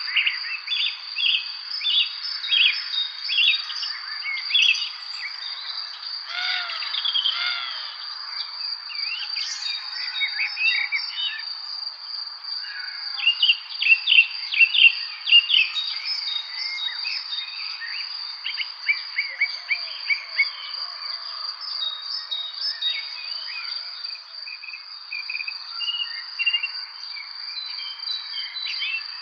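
Several songbirds chirping and calling in quick, overlapping short notes, busiest about halfway through, over a steady high-pitched insect trill that holds without a break.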